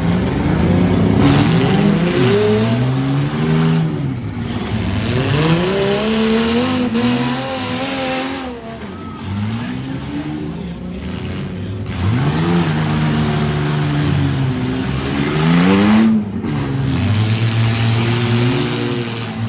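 Several demolition derby SUV and minivan engines revving up and down over one another, the pitch climbing and dropping again every few seconds as the cars accelerate, brake and reverse in the mud.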